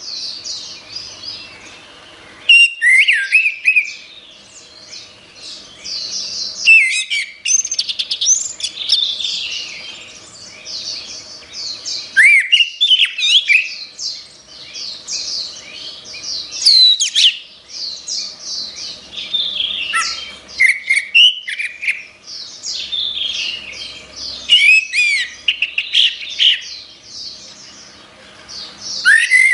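Orange-headed thrush singing a long, varied song of rapid slurred and chattering high notes, with louder phrases bursting out every few seconds.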